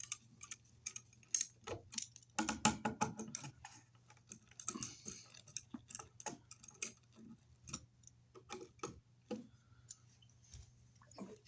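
A screw being tightened by hand with a screwdriver on an electrical outlet box: irregular small clicks and scrapes of the driver and hardware, busiest about two to three seconds in.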